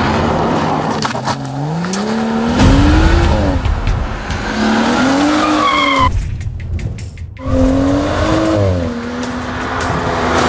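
BMW M235i's 3.0-litre turbocharged straight-six under hard driving, revs climbing and falling again and again through the bends. It drops away briefly about six seconds in, then picks up again and holds a steady note near the end.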